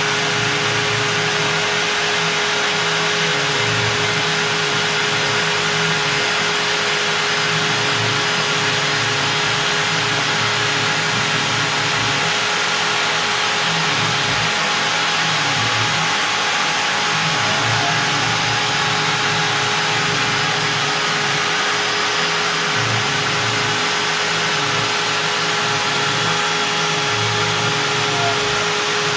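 CNC router spindle running at 25,000 rpm with a steady high whine, its 4 mm up-down compression bit cutting out a part in beech, over a steady rushing noise.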